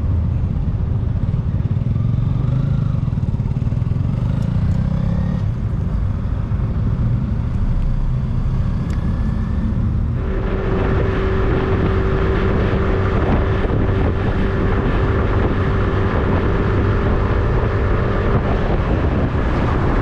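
Steady engine rumble from a vehicle. About ten seconds in it changes abruptly to a louder, rushing noise with a steady hum over it.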